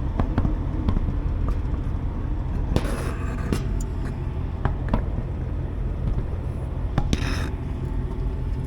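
Semi-truck diesel engine idling steadily, with scattered light knocks and clicks and two short bursts of hiss.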